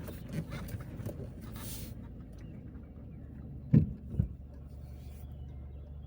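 Car driving with a steady low rumble of engine and tyres, with a scatter of light knocks and rattles in the first two seconds and two sharp thumps about four seconds in.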